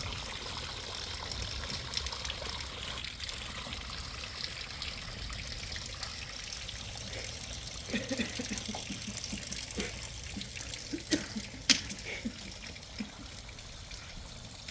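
Rainwater trickling and pouring steadily. Past the middle comes a string of short knocks and brief low voice-like sounds, with one sharp click near the end.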